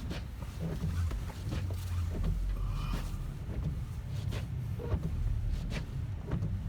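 Car cabin sound while driving slowly: a steady low engine and road rumble, with scattered short clicks and knocks.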